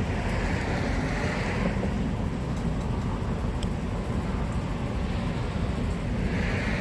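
Steady low rumble of outdoor street background noise, with a hiss that swells twice, about a second in and near the end.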